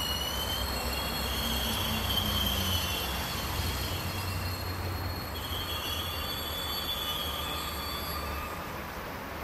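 DB class 218 diesel-hauled double-deck regional train moving through the platform with a high-pitched metallic wheel squeal. The squeal comes in two long stretches, stopping about three and a half seconds in and returning about two seconds later. A low rumble runs underneath.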